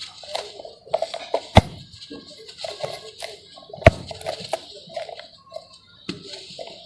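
Dry sand-cement chunks crumbling, with irregular gritty crackles and two loud sharp snaps about one and a half and four seconds in as pieces break.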